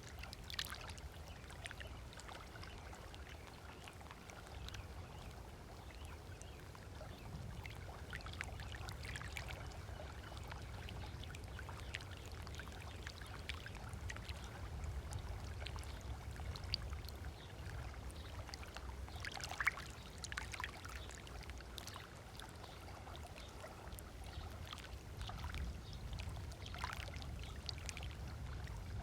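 Small waves lapping at a sandy beach shoreline, with soft, irregular splashes and trickles over a steady low rumble. One splash, about two-thirds of the way in, is a little louder than the rest.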